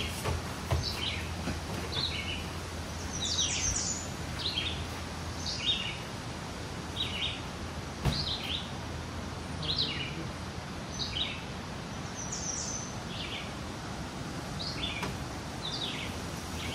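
Songbirds chirping: short, high calls repeated about once a second, over a steady low hum.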